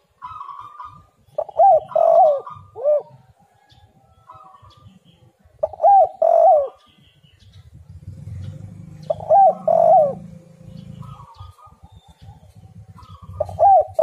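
Spotted dove cooing in repeated phrases of a few curving notes, one phrase about every four seconds. Fainter, higher calls come in between the phrases.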